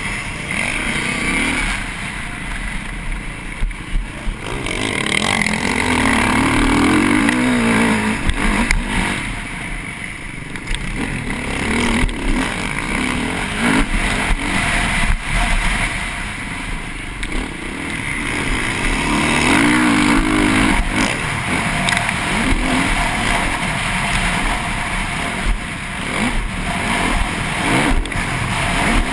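TM MX 450Fi single-cylinder four-stroke motocross engine, heard from a helmet-mounted camera, revving up and down repeatedly as the rider accelerates, shifts and rolls off through a race lap. Frequent short knocks from the bike hitting bumps on the rough track run through it.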